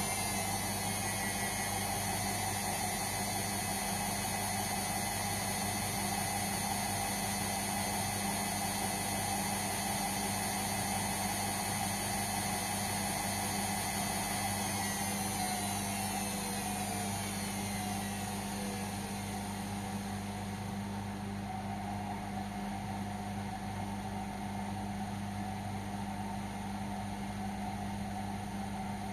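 Indesit washing machine's drum motor running, with a steady hum and a high whine. About halfway through, the whine falls in pitch and fades as the motor slows down.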